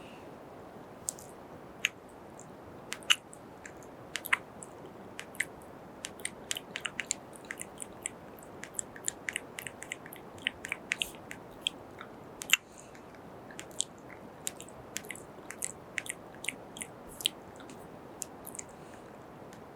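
Close-miked kiss and mouth sounds: quick, irregular wet smacks and clicks, several a second, over a steady faint hiss, with the loudest pops about 3 and 12 seconds in.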